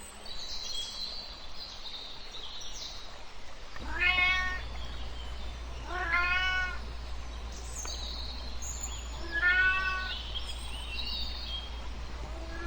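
A kitten meowing three times, about two to three seconds apart, each meow short. Small birds chirp faintly in the first few seconds.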